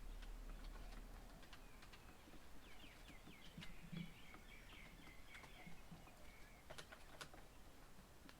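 Faint outdoor birdsong: a quick series of short, high chirps in the middle, with a couple of sharp clicks near the end.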